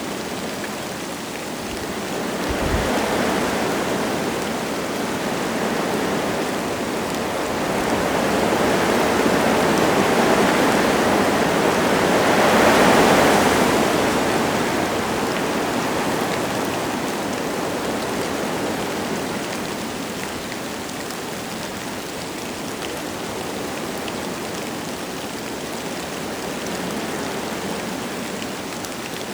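Wind gusting through forest trees with light rain falling. The rush swells in waves, strongest about halfway through, then eases to a steadier, softer rush.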